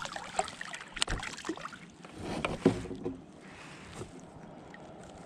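Handling noises in a fishing kayak: a few knocks and clatters on the hull and gear, the loudest about two and a half seconds in, then a faint steady background hiss.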